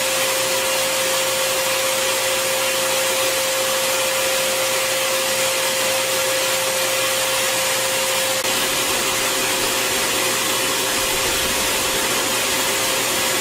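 Bissell Garage Pro wall-mounted wet/dry vac's 12-amp motor running steadily as a blower: a constant whine over a loud rush of air.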